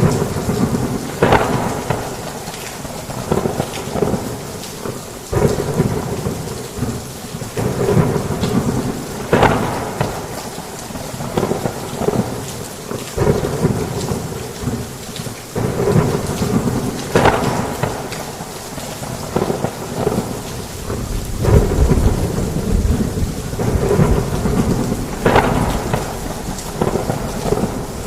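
Heavy rain falling steadily, with thunder rumbling in repeated surges every second or two; the deepest, heaviest rumble comes about three quarters of the way through.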